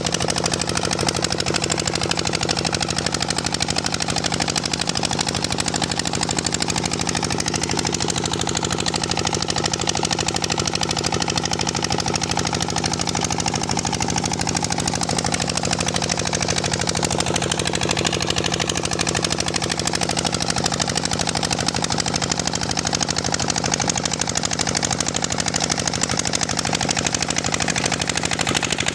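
Diesel engine driving a tubewell pump, running steadily at an even speed with a rapid, regular beat.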